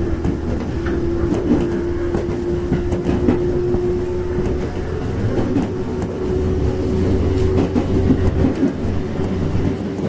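Running noise heard inside a JR 415 series 1500-subseries electric train car under way: a steady rumble of wheels on rail, with scattered rail-joint clicks and one steady drone-like tone through it.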